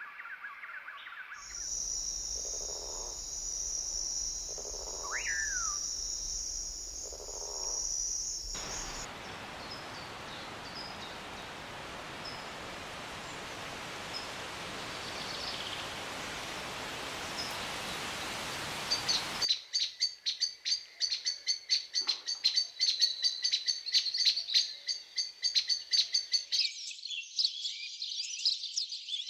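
Rainforest wildlife sounds that change abruptly several times. First comes a steady high-pitched buzz with a few low calls and one short falling whistle, then an even hiss with faint chirps, and from about two-thirds of the way in, rapid, dense bird chirping.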